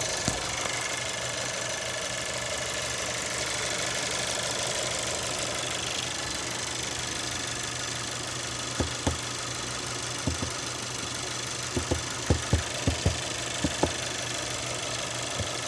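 2017 SEAT León FR 150 CV engine idling steadily, with irregular sharp clicks or knocks that start about halfway through and come in small clusters. This is the strange engine noise whose normality the owner questions.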